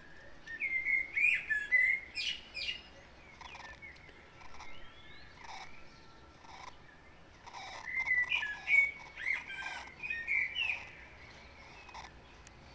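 Bird chirping in two bouts of quick chirps and short gliding notes, the first starting about half a second in and the second around eight seconds in.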